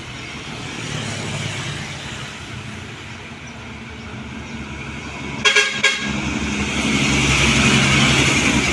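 Road traffic: a vehicle horn gives two short toots about five and a half seconds in, then a vehicle's engine and tyres grow louder as it passes close by.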